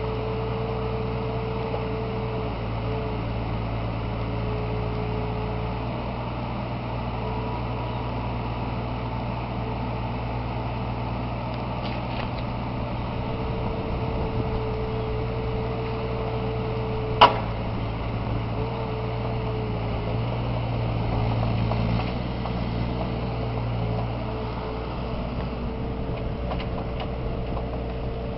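Bobcat 329 compact excavator's diesel engine running steadily with a whine that drops out and comes back a few times. A single sharp clank sounds about two-thirds of the way through.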